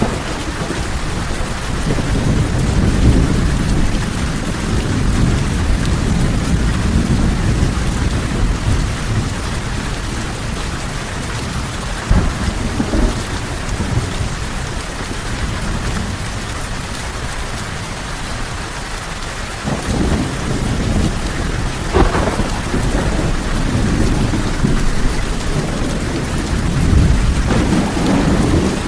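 Steady heavy rain with rolling thunder: a constant hiss over a deep rumble that swells and fades, with sharp cracks about twelve seconds in and again about twenty-two seconds in.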